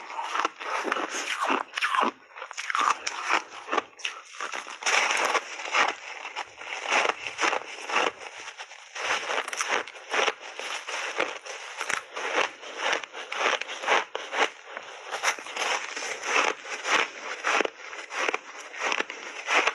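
Close-up chewing of crunchy refrozen ice with mixed berries in big bites: dense, irregular crunching and crackling, several crunches a second.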